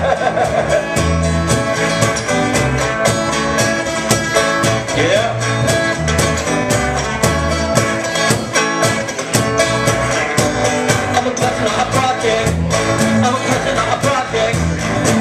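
Live band music with a steady beat and guitar: the instrumental opening of a song at an open mic.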